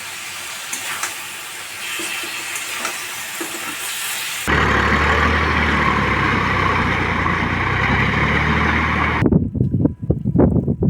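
A steady hiss, then an abrupt cut about four and a half seconds in to a tractor's diesel engine running with a loud, steady low hum. About nine seconds in it cuts again to choppy, irregular sounds.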